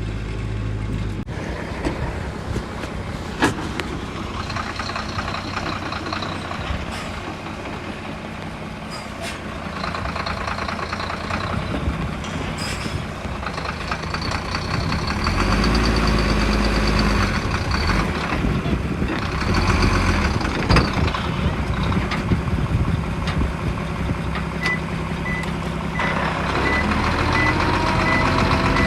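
Diesel engines of heavy construction machinery running and revving under load, with a few sharp knocks. Near the end a reversing alarm beeps steadily, about twice a second.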